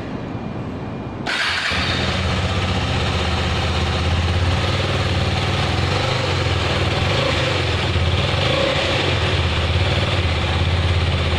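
KTM 250 Adventure motorcycle's single-cylinder engine catching about a second in, then running steadily through its exhaust.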